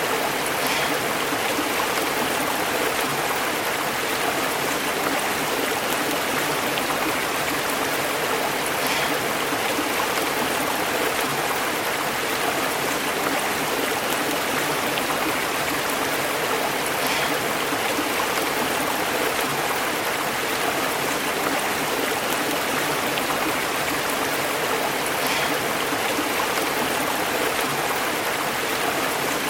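Stream water flowing and burbling over rocks, a steady rushing with small splashes now and then.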